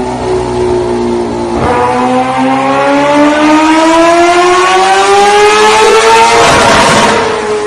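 A motor's pitched drone that sags slightly, then after a click rises steadily in pitch for about five seconds, like an engine revving up, with a burst of hiss near the end.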